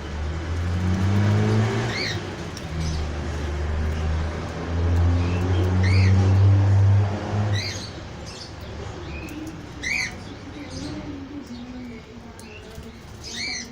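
Small birds chirping in short, sharp notes every second or two. A loud low rumble runs under them for the first seven seconds or so, then fades.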